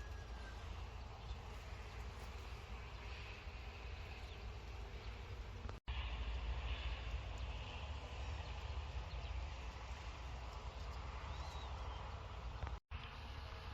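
Outdoor ambience: a steady low rumble and hiss with faint high chirps of insects or birds, broken twice by brief sudden dropouts.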